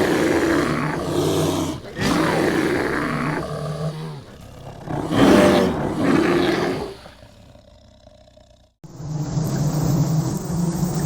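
A big cat roaring three times in a row, each roar fading out. About nine seconds in, a different steady rumbling sound abruptly takes over.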